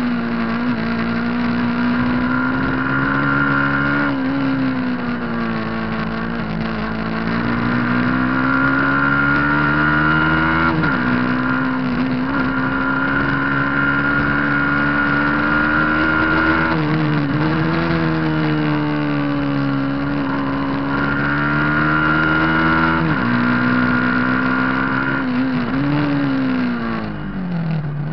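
Racing superbike engine running hard at high revs, its pitch climbing slowly and then dropping sharply several times, about every six seconds.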